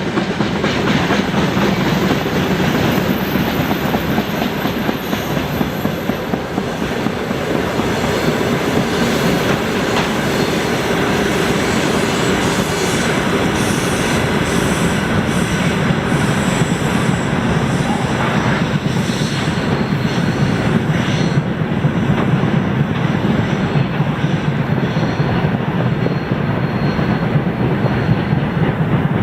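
Freight train rolling past on the rails, a steady loud rumble of wagon wheels with clatter over the rail joints. A thin high wheel squeal sounds now and then in the second half.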